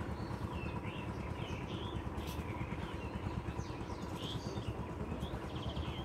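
Small birds chirping over and over in short, quick calls, over a steady low rumble.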